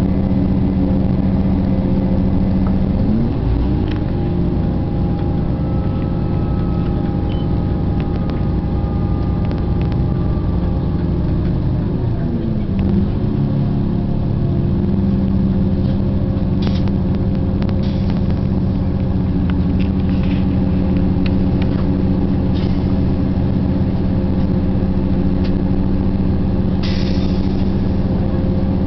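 Steady running noise of a passenger train heard from inside the carriage: a low drone with a steady hum whose pitch shifts about 3 seconds and 12 seconds in. Scattered clicks and rattles come through in the second half, with a brief hiss near the end.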